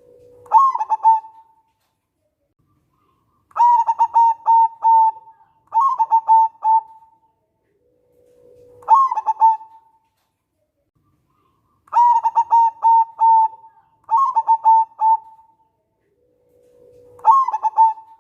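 Zebra dove (perkutut) cooing in repeated phrases. Each cycle opens with a low held note that leads into a quick burst of higher coos, then a longer run of clipped, evenly spaced coos. The cycle comes round about every eight seconds, more than twice.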